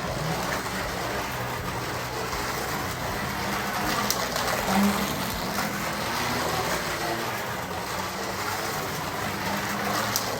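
Carrera Digital 132 slot car running laps on its plastic track on new silicone tires: the steady whir of its small electric motor mixed with the rattle of wheels and guide along the track, with a brief louder blip about halfway through.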